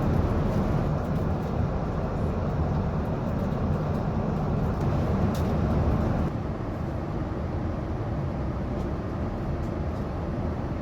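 Steady cabin noise of a Boeing 787-9 in flight: the airflow and engine rumble heard inside the passenger cabin. It drops slightly in level about six seconds in.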